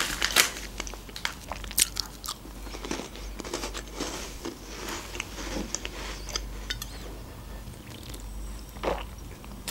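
Close-miked eating of round sandwich cookies with a filling: a few crisp crunches as they are bitten, then softer chewing. Near the end comes a sip from a bottled drink.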